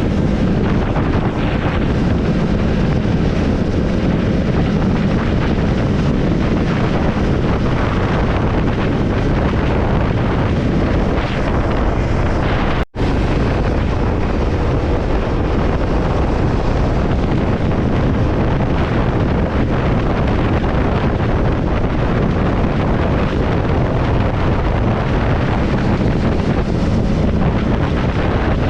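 Triumph Scrambler 400X's single-cylinder engine running steadily at road speed, mixed with heavy wind buffeting the microphone. The sound drops out for an instant about 13 seconds in.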